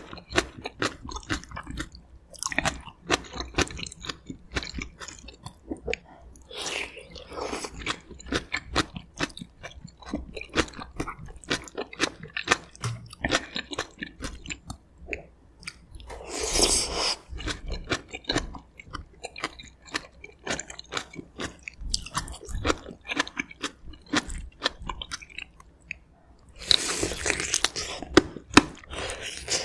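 Close-miked eating of braised aged kimchi and pork-bone meat from gamjatang: wet chewing with many sharp mouth clicks and smacks. Longer, louder wet stretches come about two and a half seconds in, around seven seconds, around sixteen to seventeen seconds, and again near the end.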